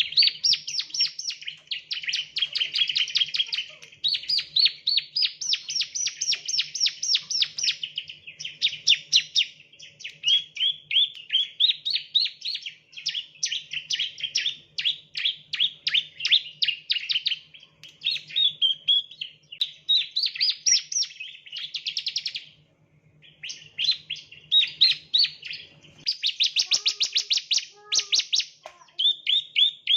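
Bar-winged prinia (ciblek, Prinia familiaris) singing: long runs of fast, high, repeated chirping notes with a brief pause about two-thirds of the way through.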